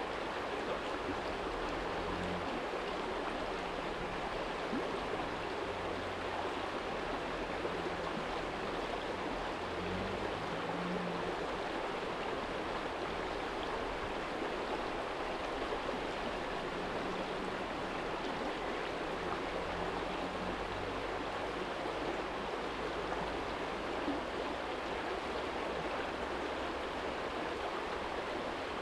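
Small shallow stream running steadily over a stony bed, a constant rush and babble of water, with a faint low hum of distant city traffic now and then.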